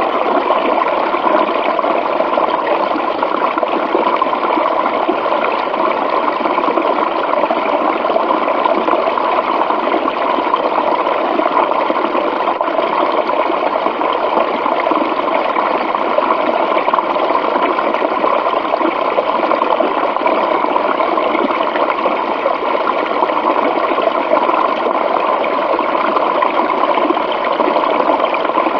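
Running water rushing steadily and evenly, with no let-up or change.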